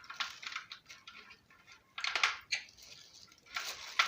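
Parts of a ring light stand being handled and screwed together: short scraping and clattering of plastic and metal, with a louder scrape about two seconds in and another near the end.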